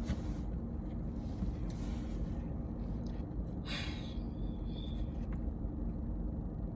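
Steady hum of a parked car's engine idling, heard inside the cabin, with a few short breathy sniffs or snorts and a brief high squeak about four seconds in.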